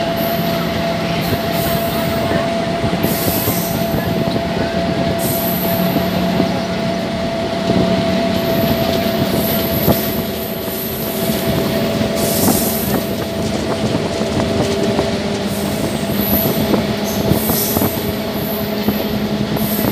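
Electric-hauled express train running at speed, heard from one of its own coaches: a steady loud rumble of wheels on rail with a steady low hum, and brief high-pitched wheel squeals coming and going every second or two.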